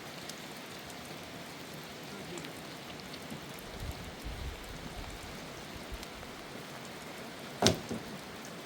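Steady rain falling, an even hiss with scattered drop ticks. A single sharp knock stands out about three-quarters of the way in, followed by a fainter one.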